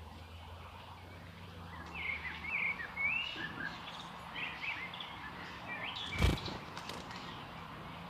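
Small birds chirping in quick, high twittering calls from about two seconds in, with a single sharp thump, the loudest sound, a little after six seconds.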